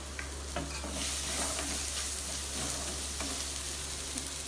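Onion-tomato masala frying in oil with ginger-garlic paste being added, sizzling while a spoon stirs and scrapes the pan; the sizzle grows louder about a second in.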